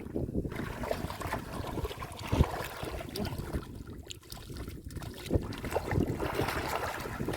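Irregular sloshing and splashing of shallow muddy water, with wind buffeting the microphone.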